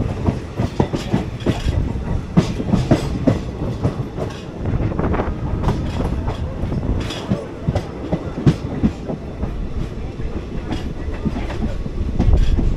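Passenger train moving, its wheels clattering over the rail joints in irregular clicks and knocks over a steady low rumble.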